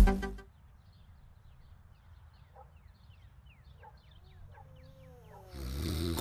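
Music cuts off abruptly, leaving a quiet stretch with faint birds chirping in short, high, falling notes. About five and a half seconds in, a louder rushing noise comes in.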